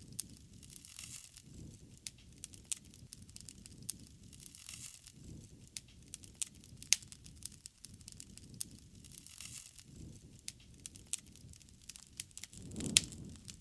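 Wood fire crackling: irregular sharp pops and snaps over a low, swelling rumble, with louder pops about seven seconds in and near the end.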